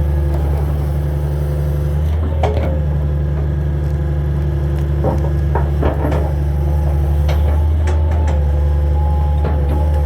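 Hitachi 225 excavator's diesel engine running steadily under work, with a scatter of sharp knocks and cracks: one about two and a half seconds in, a cluster around five to six seconds, and more near the end, as it handles wood debris.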